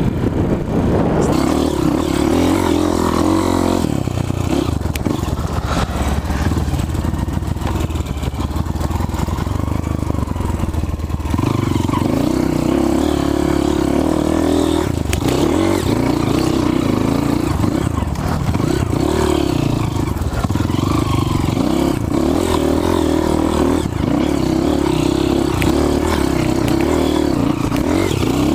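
Off-road trail motorcycle engine running as the bike is ridden, its revs shifting up and down a few times, with clattering over rough ground.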